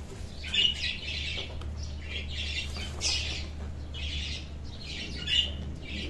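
Birds squawking in short, harsh calls, about six of them spread over a few seconds, over a steady low hum.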